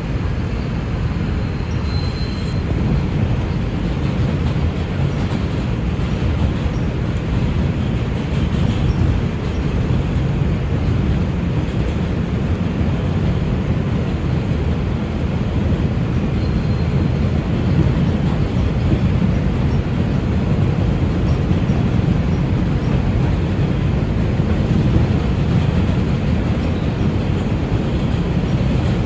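R142 subway train running along the track, heard from aboard: a steady low rumble of wheels and rail noise, with a faint brief high squeal about two seconds in and again near the middle.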